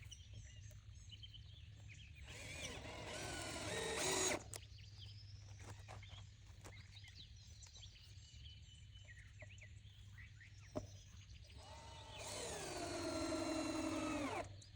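Power drill running in two bursts of about two seconds each, one near the start and one near the end, as screws are driven into the greenhouse frame. A single sharp click comes between them.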